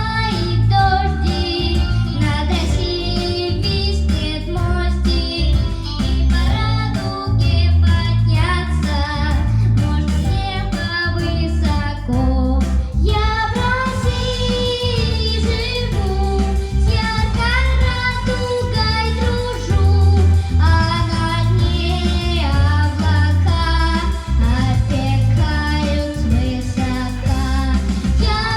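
A five-year-old girl singing a children's song over a backing track with a steady beat.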